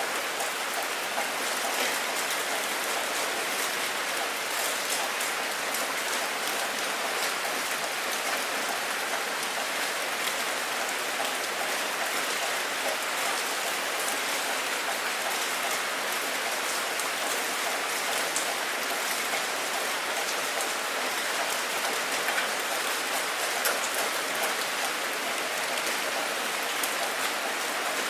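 Steady rainfall, an even hiss with many small drops pattering at a constant rate.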